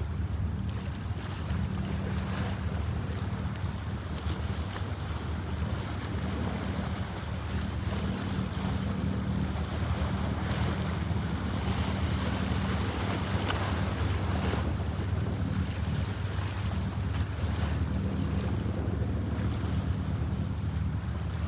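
Steady low hum of a boat's engine under the rush of water and wind buffeting the microphone.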